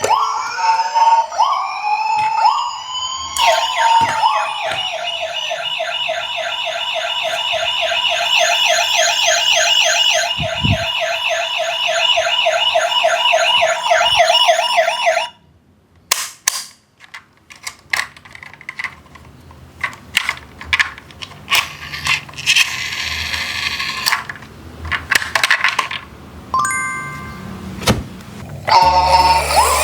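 Several electronic emergency sirens wailing together, rising and falling, then a single fast warbling siren that runs for about twelve seconds and cuts off suddenly halfway through. After it come quieter scattered clicks and short electronic tones.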